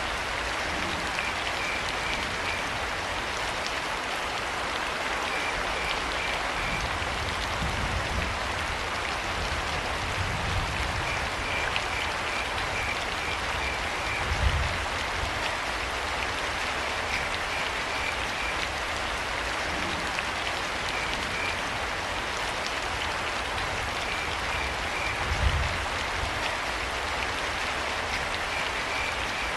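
Steady rain falling, with crickets chirping in short runs of evenly spaced high pulses every few seconds. Low thuds swell through the rain now and then, loudest about halfway through and again near the end.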